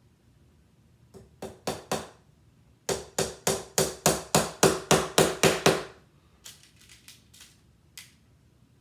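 Small hammer driving little nails into a wooden beehive frame: a few taps, then a steady run of about a dozen harder blows at roughly three a second, then several lighter taps.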